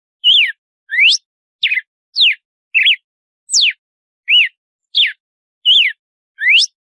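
Red-cowled cardinal (galo-de-campina) singing its 'açoite' whip song: a steady series of about ten short, clear whistled notes, roughly three every two seconds, some sweeping up, some sweeping down and some rising then falling.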